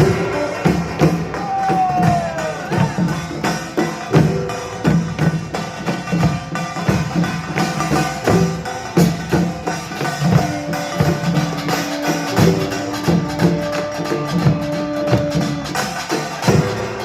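Korean pungmul percussion ensemble playing a fast, dense rhythm: kkwaenggwari small gongs clanging over janggu hourglass drums and buk barrel drums. Long held tones sound over the drumming from about ten seconds in.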